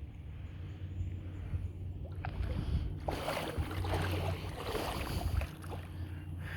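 Wind rumbling on the microphone, with shallow lake water splashing and sloshing from about three seconds in, as in wading.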